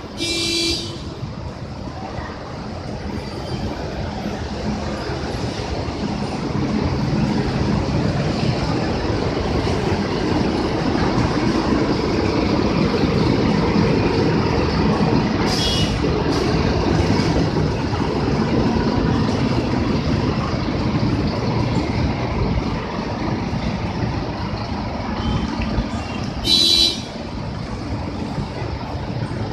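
Transjakarta city buses running past at close range, the engine noise building to its loudest midway and then easing off. A short horn toot sounds at the start and another near the end.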